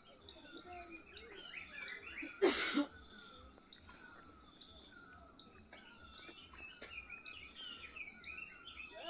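Several birds chirping and calling in short, repeated downward-sliding notes over a faint steady high hiss. About two and a half seconds in, a brief loud burst of noise cuts across them.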